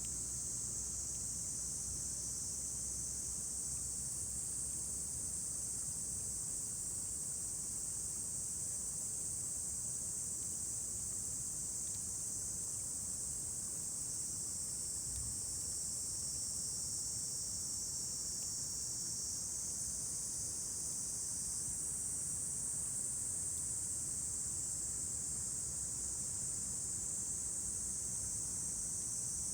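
Insects chirring steadily in a summer evening chorus, a constant high-pitched drone, with a faint low rumble fading out in the first few seconds.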